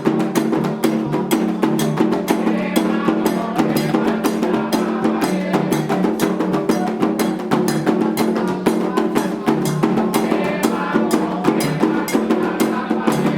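Candomblé ritual drumming: atabaque hand drums beating a fast, steady rhythm, with voices singing over it in places.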